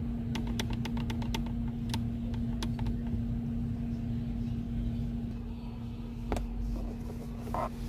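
Cabin of a Volkswagen Virtus with the car running: a steady hum and low rumble, over which about ten sharp plastic clicks and rattles come in the first three seconds, then a single knock about six seconds in. The rattles are from loose, poorly fitted interior trim.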